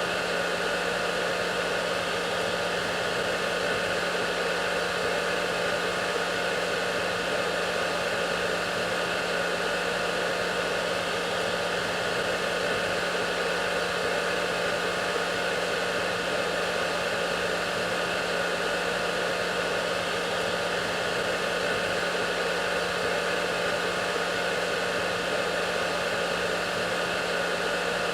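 Hair dryer running continuously: a steady whooshing hiss of motor and fan airflow with a constant low hum, unchanging throughout.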